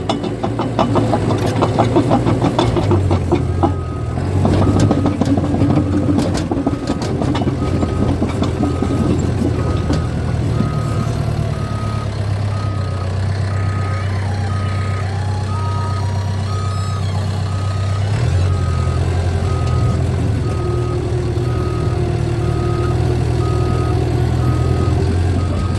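Cat bulldozer's diesel engine running steadily under load, its steel tracks clanking for the first few seconds. A backup alarm then beeps at a steady rhythm of a little over one beep a second as the dozer reverses.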